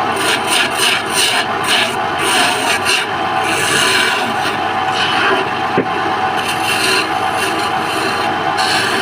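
Woodworking machine running steadily while a tool scrapes and cuts against wood in repeated short strokes, quickest in the first few seconds.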